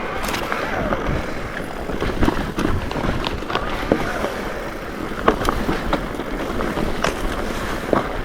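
Mountain bike riding over a rock garden: a steady rumble of tyres and wind on the microphone, with frequent sharp clicks and knocks from the wheels and drivetrain striking rocks.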